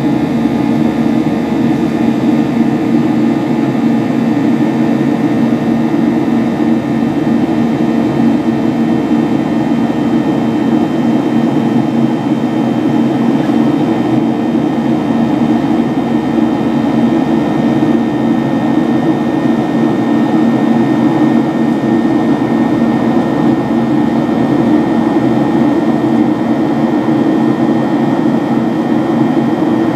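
Boeing 737-800's CFM56-7B turbofan engines running steadily: an even deep hum with a few faint steady tones higher up, holding at one level throughout.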